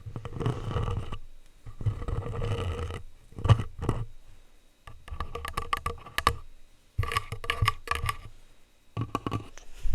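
Plastic utensils scraping and tapping directly on a microphone: two rubbing strokes in the first few seconds, then bursts of quick clicking taps.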